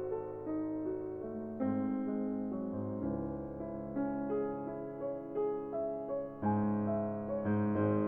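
Background piano music, soft notes and chords at a gentle pace.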